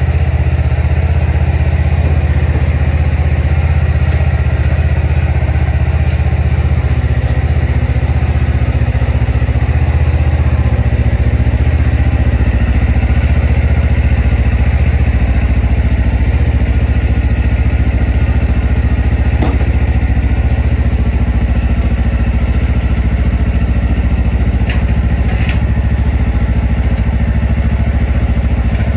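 Kawasaki Ninja 500 KRT's parallel-twin engine idling steadily on a cold start, still warming up after four months' storage in freezing weather.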